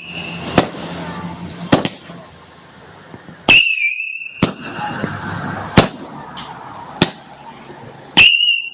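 Fireworks going off in a finale barrage: sharp bangs every second or so over a steady crackle, with two short, high, steady whistles.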